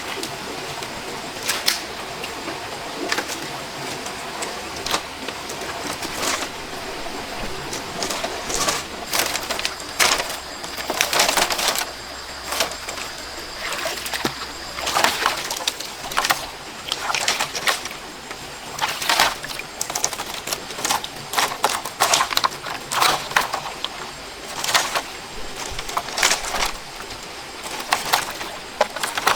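Irregular sharp knocks and cracks of wood being chopped or worked, sparse at first and then coming in clusters from about a quarter of the way in, over a steady background hiss; a bird coos at times.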